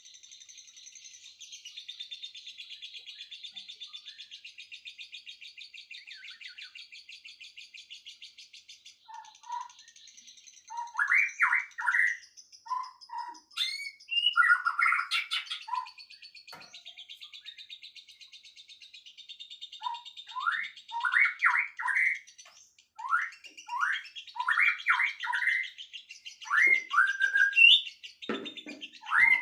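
Birds singing. A high, steady trill runs through the first nine seconds. Then a louder bird breaks in with bursts of quick, rising whistled notes, repeated in clusters.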